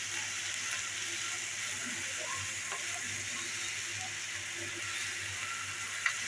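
Grated carrot and bottle gourd halwa sizzling steadily in a kadai, with a few light scrapes of a metal spatula against the pan and a sharper one near the end.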